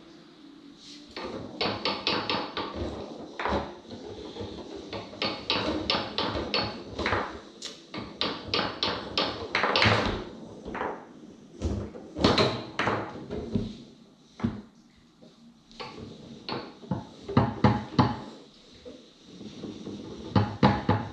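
Foosball being played on a Tornado table: the ball clacking off the plastic men and the table walls, with rods knocking and rattling, often in quick runs of taps and sharp hits.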